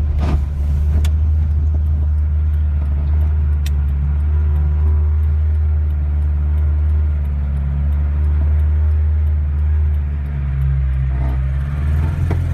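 A 1981 Volkswagen Rabbit pickup driving, heard from inside the cab: the engine and road noise make a steady low drone. A few sharp clicks come in the first few seconds, and the level dips briefly about ten seconds in.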